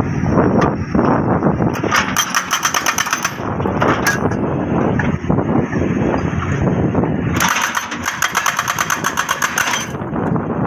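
Jackhammer breaking hard rock in two bursts of rapid blows, the first about a second and a half long and the second about two and a half seconds, over a steady engine running underneath.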